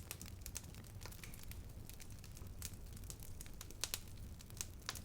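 Wood fire burning, with irregular sharp crackles and pops over a low steady rumble; the loudest pops come near the end.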